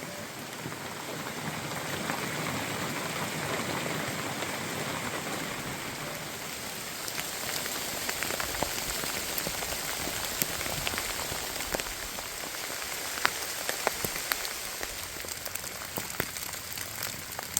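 Heavy rain falling steadily, with many close drops landing as sharp single taps, more of them in the second half.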